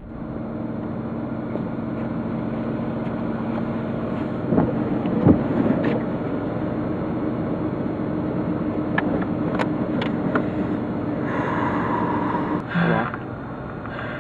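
Car driving at a steady speed, heard from inside the cabin: a constant engine hum under road noise, with a few light clicks and a brief higher-pitched noise near the end.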